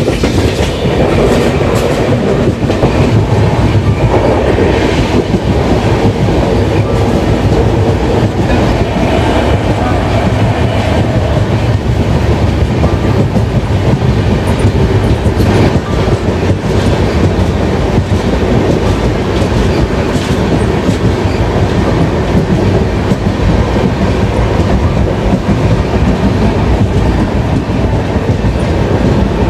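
Passenger train running at speed: a steady rumble with the wheels clattering over the rail joints.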